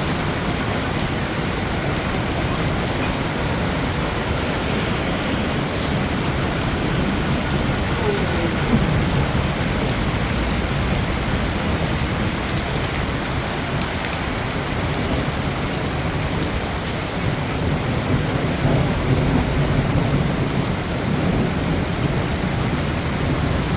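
Heavy rain falling steadily, a dense, even hiss of rain on surfaces, swelling slightly near the end.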